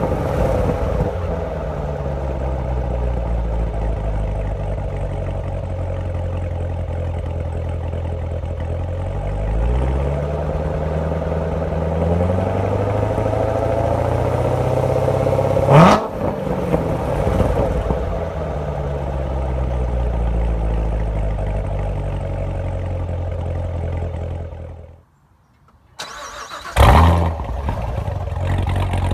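C7 Corvette Z06's supercharged 6.2 L LT4 V8 on a cold start, through a Borla X-pipe with the exhaust valves open. It holds a high idle that slowly sinks in pitch, gives a sharp rev flare about halfway through, then cuts out for about a second near the end and restarts with another flare.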